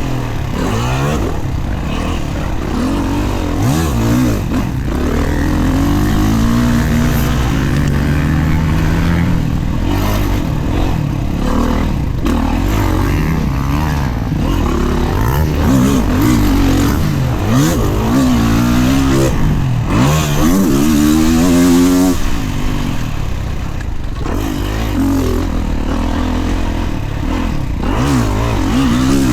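Kawasaki KX450 four-stroke single-cylinder dirt bike engine ridden hard, its note climbing and dropping again and again as the throttle is opened and shut.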